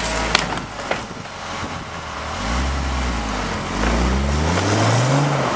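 Offroad Jeep's engine revving up twice under load as it strains against a snow bank, each rise in pitch lasting about a second. A few sharp knocks come just at the start.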